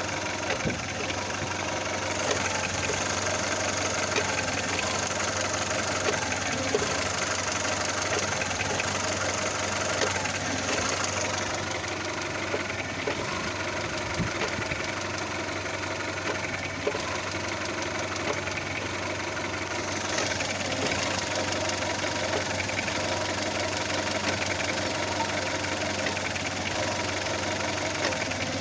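Audi A2 engine running steadily at idle with a rattle, which the owner suspects may come from an engine mount.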